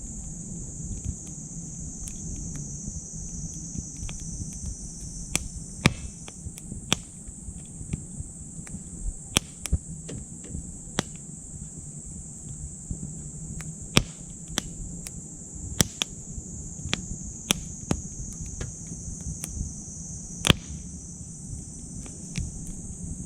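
Small wood fire burning in a titanium wood stove, crackling with sharp pops scattered every second or so, a few of them much louder, over a low steady rumble of flame. A steady high chorus of insects runs behind it.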